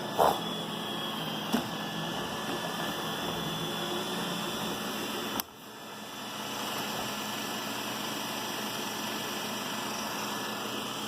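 iRobot Roomba 960 robot vacuum running on carpet, with a steady whirr from its suction fan and brushes. A couple of short knocks come early on. About halfway through, the sound drops suddenly and builds back up over about a second.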